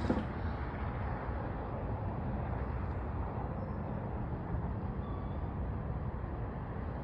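Steady low outdoor rumble with no clear single source, with a brief knock right at the start.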